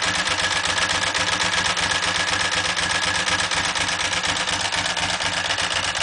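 Ducati 748 superbike's 90-degree V-twin, bored out to 853 cc with a big-bore kit, idling steadily.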